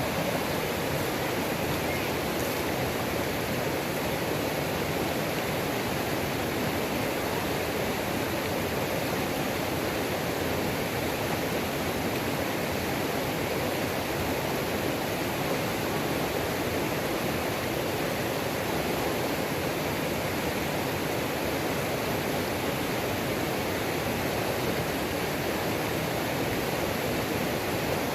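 Waterfall on a mountain creek, water pouring and rushing in a steady, unbroken roar.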